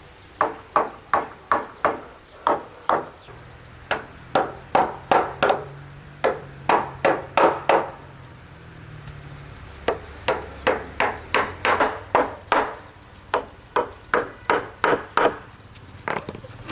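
A tool striking wood again and again, about three blows a second, in several runs separated by short pauses.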